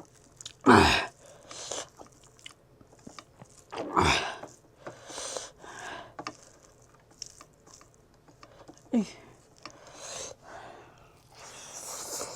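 A person chewing and eating a meal of rice and curry close to the microphone: irregular wet chewing and biting noises. There are louder mouth sounds about a second in, about four seconds in and again near nine seconds.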